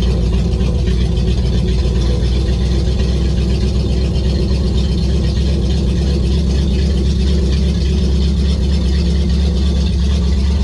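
An engine running steadily at a constant speed, with a low, even hum that does not rise or fall.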